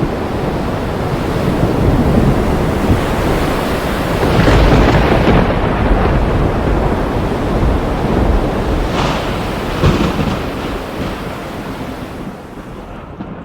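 Thunderstorm: thunder rumbling, swelling loudest about four to five seconds in, with sharp cracks twice a little after the middle, then dying away near the end.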